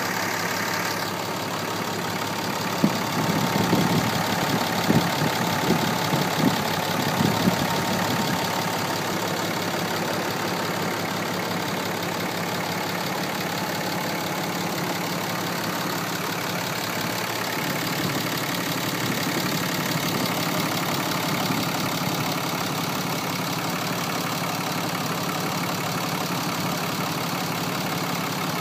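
2010 Dodge Ram 2500 pickup engine idling steadily. A few sharp, louder knocks sound between about three and eight seconds in.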